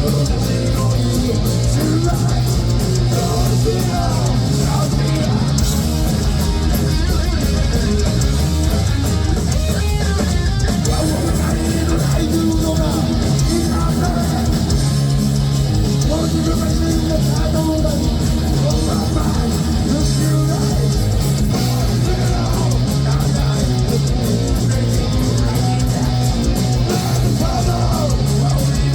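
Heavy metal band playing live: loud distorted electric guitars over bass and drums, with singing.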